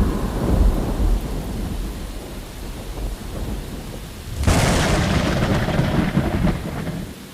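Thunder: a low rumble dying away, then a sudden sharp thunderclap about four and a half seconds in that rolls on and fades, over steady rain.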